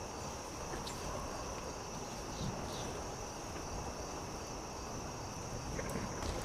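Crickets trilling in a steady high chorus over a crackling campfire, with a few sharp pops scattered through.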